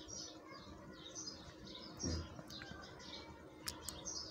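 Faint chirping of small birds, short high chirps repeating every third to half second, with a brief low sound about two seconds in and two sharp clicks near the end.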